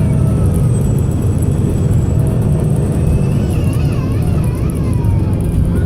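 VDL SB200 single-deck bus's diesel engine running hard under load, a steady heavy rumble heard from on board. A faint high whine slowly falls in pitch over the first few seconds. The engine is misfiring.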